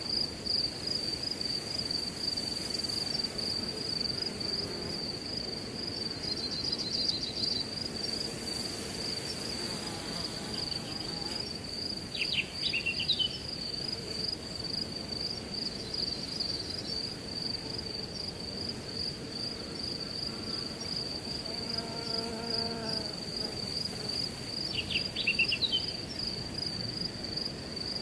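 Crickets chirping in a steady, fast pulsing high trill, over a low rush of wind through grass. A bird gives short chirping calls twice, about halfway through and near the end.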